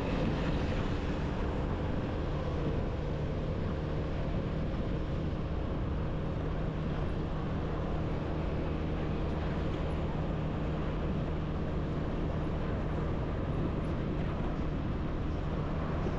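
Small motorbike engine running at a steady pace under way, with a low, even hum and road and traffic noise.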